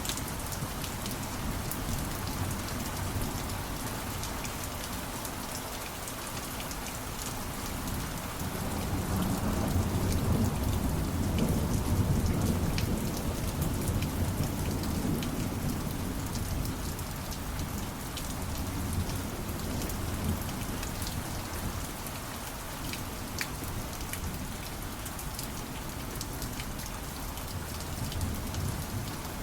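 Steady heavy rain with fine pattering drops, and a long low rumble of thunder that swells and fades over several seconds about a third of the way in.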